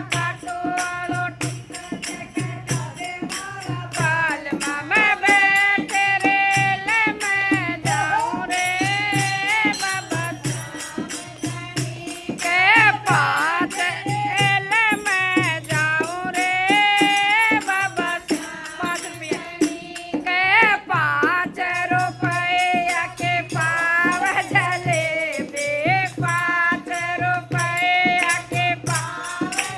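A Hindi devotional bhajan: one voice singing a melody with sliding ornaments over a steady low drum beat and a continuous shaker-like rattle.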